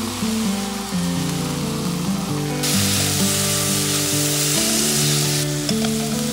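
Chopped tomatoes and onion sizzling in olive oil in a pan, the sizzle turning much louder about a third of the way in and dropping back near the end. Background music with held low notes plays throughout.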